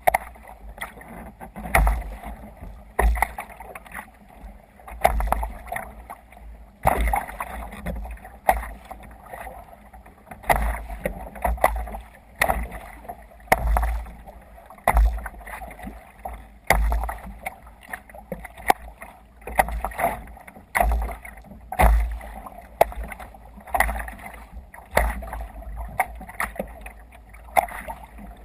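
Sea kayak under way on open water: water splashing and slapping at the hull in repeated bursts about every second and a half, each with a low thump.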